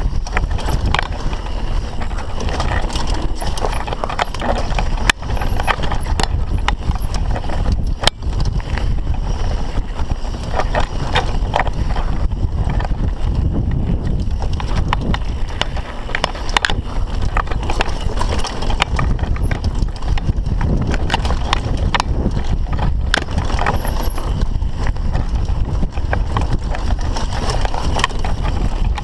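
Mountain bike clattering and rattling over a rough trail, with a steady rush of wind on the microphone and frequent sharp knocks from hits, the two loudest about 5 and 8 seconds in.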